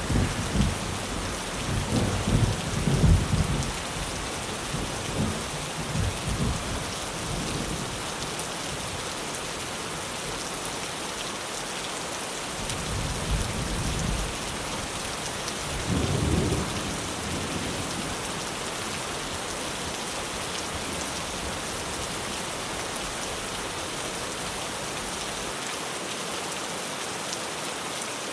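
Heavy rain drumming steadily on a tin roof, with thunder rumbling through the first several seconds and twice more around the middle.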